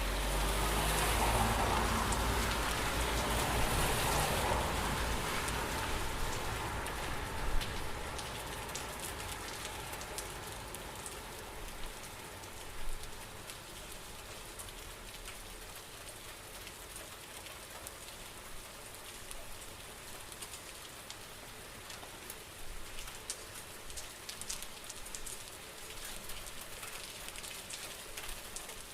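Steady rain falling, with scattered individual drips and splashes. For the first several seconds it is louder, with a low rumble underneath that fades out by about six seconds in, leaving a softer, even patter.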